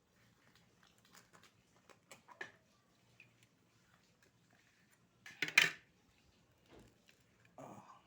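Small clicks and clinks of oyster shells and utensils being handled while eating, with one louder, brief clatter about five and a half seconds in.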